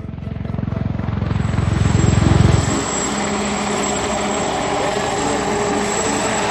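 Helicopter rotor blades chopping rapidly and growing louder until about two and a half seconds in. The chop then gives way to a steady rush of engine and rotor noise with a thin high whine.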